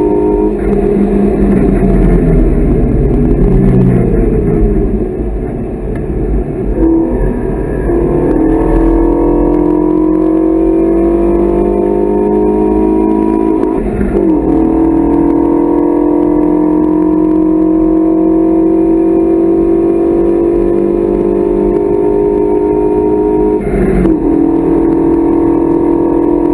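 Renault Mégane 3 RS's turbocharged four-cylinder engine heard from inside the cabin, pulling hard up through the gears. The note eases off for the first few seconds, then climbs steadily, drops sharply at an upshift about halfway through, climbs again and shifts up once more near the end.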